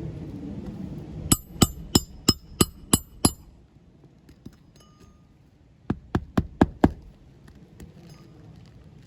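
Hammer driving roofing nails into a reinstalled asphalt shingle: a run of about seven sharp strikes with a slight metallic ring, then after a pause a quicker run of about five.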